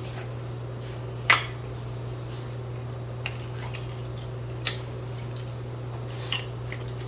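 A few separate sharp clinks and knocks of kitchen utensils and dishes, the loudest about a second in and another near the middle, over a steady low hum.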